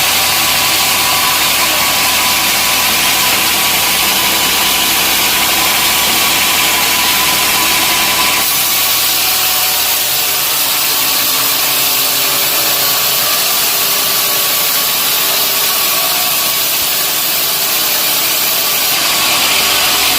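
Sawmill saw running steadily as it cuts through a log, a loud, even hiss over the machine's hum; the deepest part of the hum drops away about eight seconds in.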